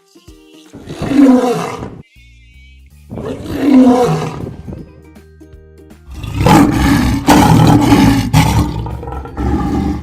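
Lion roaring: two long roars a couple of seconds apart, then a longer, denser run of roars from about six seconds in, with light background music underneath.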